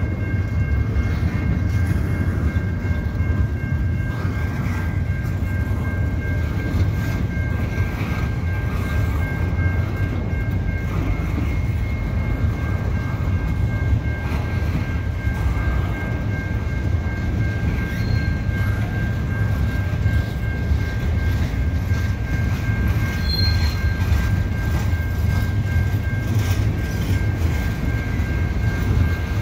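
Loaded double-stack intermodal well cars of a freight train rolling slowly past, a steady low rumble of steel wheels on rail. A steady high-pitched whine runs over it the whole time.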